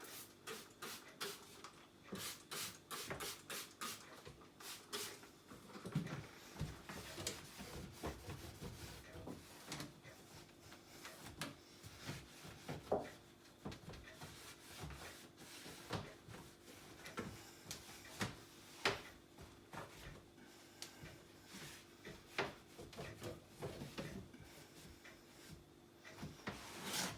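Faint rubbing and wiping on the dishwasher by hand, with scattered clicks and knocks as its parts are handled.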